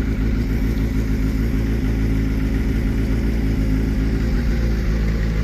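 A vehicle engine running steadily: an even, low hum that holds one pitch, with no revving.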